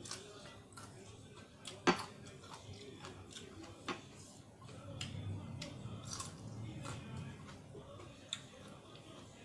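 Close-up eating sounds: chewing with irregular short, sharp clicks and smacks, the loudest about two seconds in.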